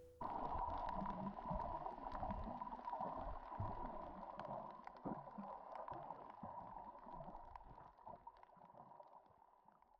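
Faint underwater ambience: gurgling water with scattered crackling clicks and a thin steady hum, slowly fading out.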